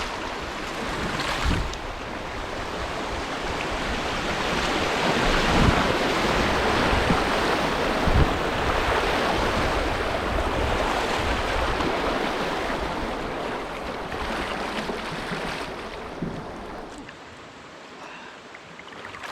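Rushing creek water in a riffle, building to a loud wash near the middle and fading away toward the end, with a few knocks.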